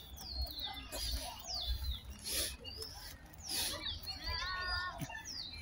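Small birds calling in park trees: a series of short, high chirps, each falling in pitch, repeated every second or so.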